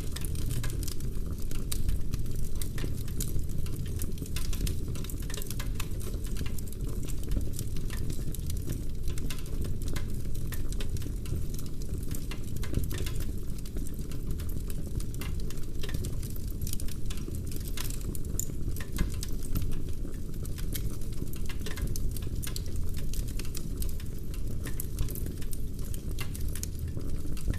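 Wood fire burning in a fireplace: a steady low rumble of flames with dense, irregular crackles and pops from the burning logs.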